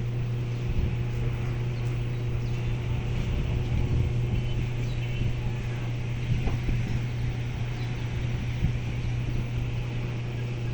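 A fishing boat's engine running steadily with an even, low hum, over an irregular low rumble.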